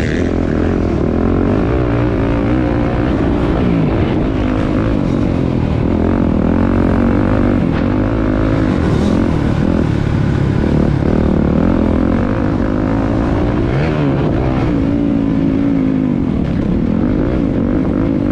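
Motocross bike engines running and revving on track, several at once, their pitch rising and falling as the riders work the throttle.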